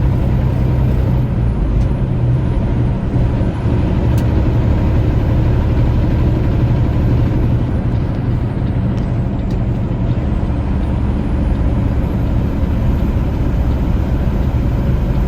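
Semi-truck's diesel engine running steadily, a low hum under even road noise.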